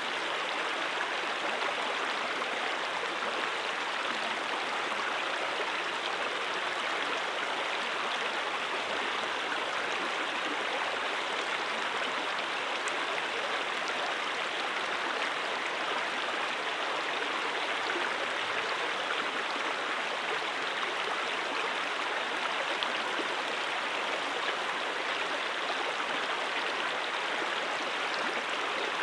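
Stream water rushing and babbling steadily over rocks, an even unbroken flow.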